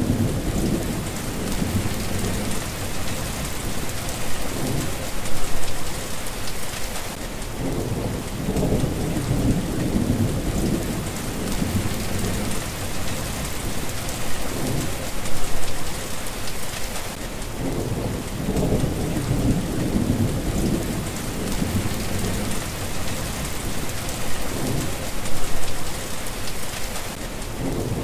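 Steady rain falling, with low rumbles of thunder that swell and fade several times.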